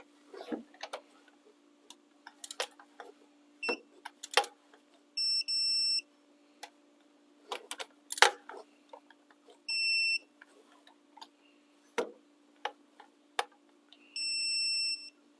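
Electronic beeps from a digital torque wrench, sounding three times for about a second each as bolts reach a set torque. Between them are sharp clicks and clanks of hand tools on metal, over a faint steady hum.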